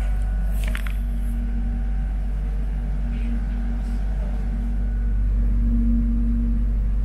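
Steady low electric hum of an airport train carriage's on-board equipment while the train stands still, with a short clatter about a second in.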